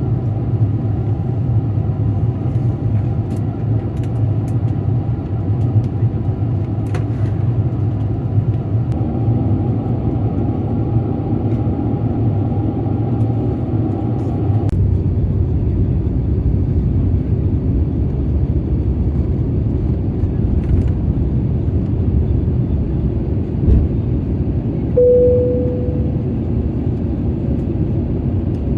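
Steady low drone of jet airliner cabin noise, from engines and airflow. The drone shifts abruptly about halfway through, and a short single tone sounds near the end.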